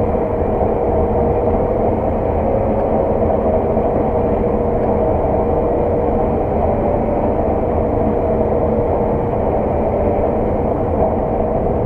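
Claas 600 TT combine harvester running steadily while combining oilseed rape: a constant low drone with a thin steady whine on top that fades out near the end.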